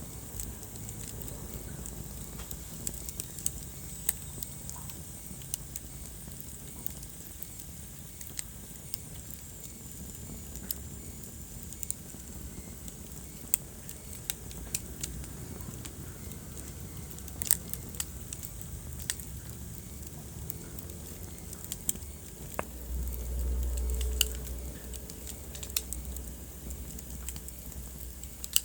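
Wood fire crackling in a fireplace: irregular sharp pops and snaps over a low, steady rumble of the flames, the rumble swelling for a couple of seconds about three-quarters of the way through.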